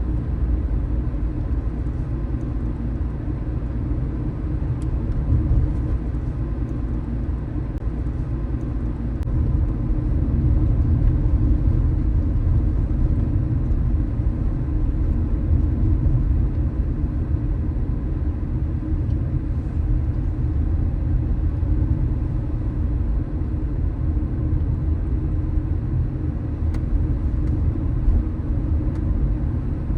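Steady low rumble of a car driving: engine and tyre noise on the road, growing a little louder about a third of the way through.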